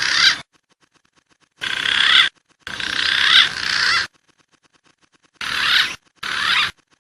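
Looped lure recording of wild pigeon calls: short bursts of wavering, warbling calls, five in all, each starting and cutting off abruptly with silent gaps between.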